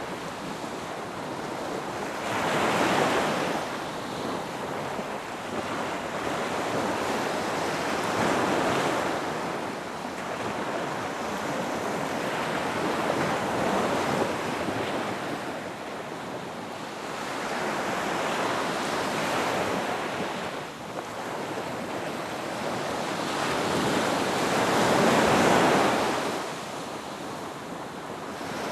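Ocean waves breaking on a beach, a steady wash of surf that swells and falls back every five or six seconds, the loudest surges about three seconds in and near the end.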